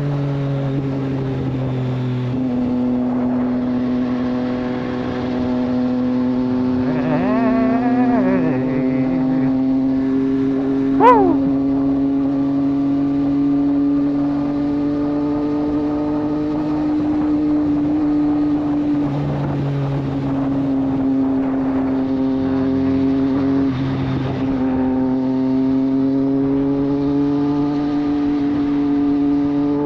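Triumph Street Triple 765 RS inline-three engine through a Racefit Growler full exhaust, running at a steady cruise with gentle rises and falls in revs. A brief wavering tone comes about seven seconds in, and a short sharp blip about eleven seconds in.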